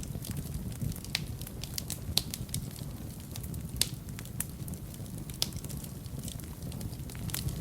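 Fire burning in a fireplace: a steady low rumble of flame with irregular sharp crackles and pops, about one a second.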